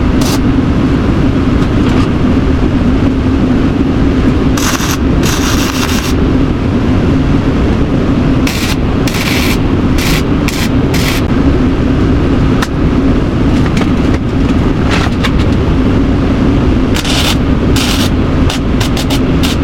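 Welding arc crackling in several bursts of a second or more as the exhaust mid-pipe's seams are welded solid, over a steady low hum.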